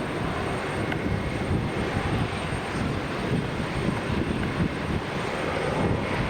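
Jet airliner engines heard as a steady, noisy rumble, heaviest in the low end.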